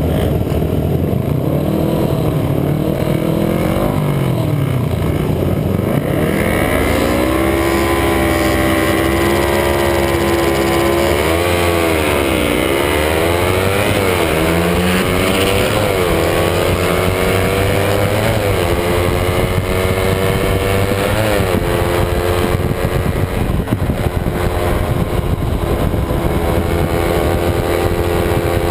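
Kawasaki Ninja 250 parallel-twin engine heard from onboard the bike. It revs unevenly for the first few seconds, then from about six seconds in accelerates hard through the gears, its pitch climbing and dropping sharply at each upshift, and finally holds a high, fairly steady pitch at speed.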